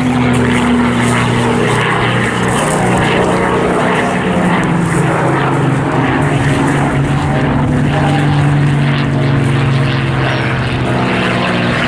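Two V12 piston-engined warbirds, a Spitfire and a Mustang, drone steadily overhead in a display pass. Their engine notes shift slightly in pitch as they move.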